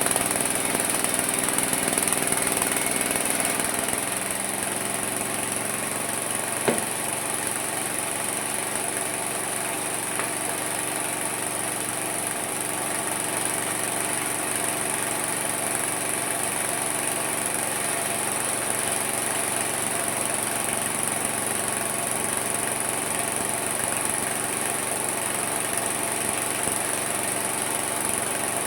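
Homemade mini sawmill running steadily with a motor-like drone. About four seconds in the level drops slightly and the pitch shifts, and a single sharp click comes a few seconds later.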